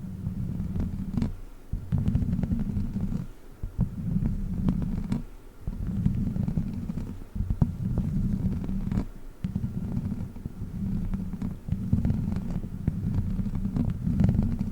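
A witch-finger prop worked right against the microphone in repeated low rubbing strokes, each lasting a second or two with short gaps, plus scattered small clicks.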